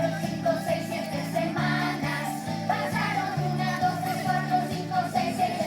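Children's song with sung vocals over a bouncy accompaniment with a regular bass line.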